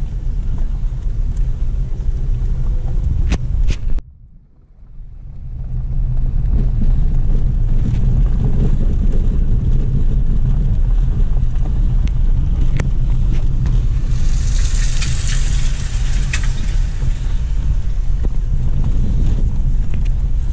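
Road noise of a car driving: a steady low rumble of engine and tyres with wind on the microphone. About four seconds in the sound cuts out abruptly and fades back in over a couple of seconds, and a rushing hiss swells and fades a little past the middle.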